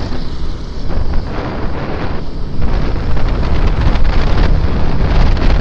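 Wind buffeting the microphone of a moving motorcycle, a loud rumbling rush with the Suzuki Gixxer SF 250's running and road noise underneath.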